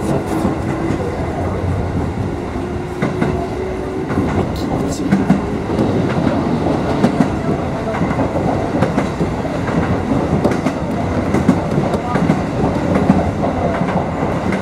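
Kotoden electric train (set 1104F) running along the line, heard from inside the front car: a steady running rumble with repeated clicks and clacks of the wheels over the rail joints.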